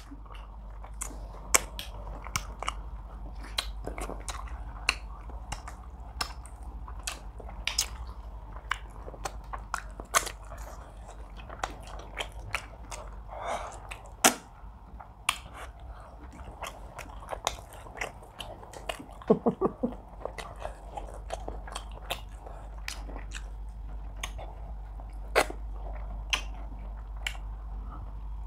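Close-up eating sounds of people chewing pounded yam, okro soup and tilapia by hand: irregular wet mouth clicks and lip smacks, over a steady low hum.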